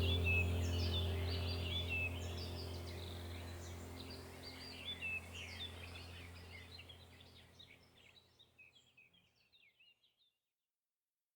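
Many small birds chirping and twittering over a low steady hum, the whole sound fading out gradually to silence about eight seconds in.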